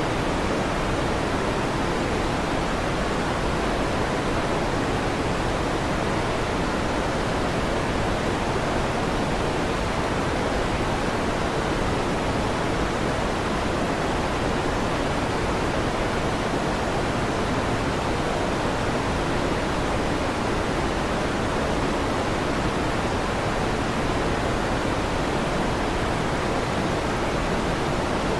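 Steady fan noise, an even rushing hiss with no changes in level; no thunder is heard.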